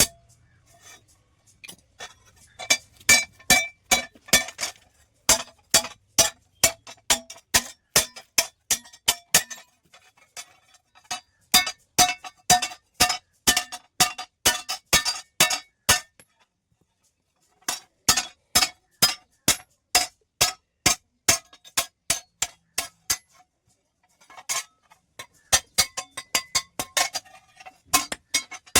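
Hand hammer striking steel on an anvil, with runs of ringing blows at about three to four a second, broken by short pauses.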